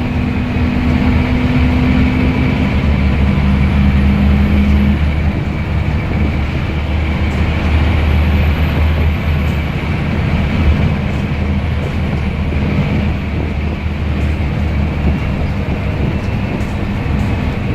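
Scania N230UD bus's diesel engine and ZF Ecomat automatic gearbox running steadily under way, with a steady gearbox whine over the engine drone.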